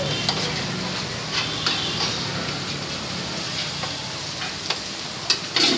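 Food frying and sizzling in a metal pan on a stall stove, with a few short clinks of a metal utensil against the pan and a steady low hum underneath.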